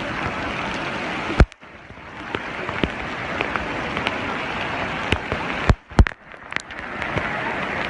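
Steady rain falling, a dense hiss dotted with the sharp ticks of drops hitting nearby surfaces. The sound cuts out briefly twice, each time just after a loud knock, about a second and a half in and again about six seconds in.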